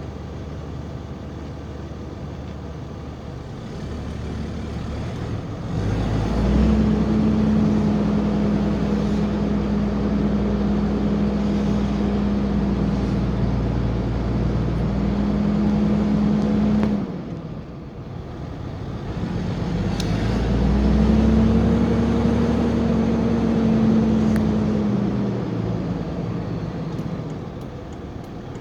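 Straight-piped 2003 Cummins 5.9-litre inline-six turbo diesel pulling under throttle. The exhaust note builds about six seconds in and holds steady, then drops away suddenly a little past halfway. It builds again and holds before easing off near the end.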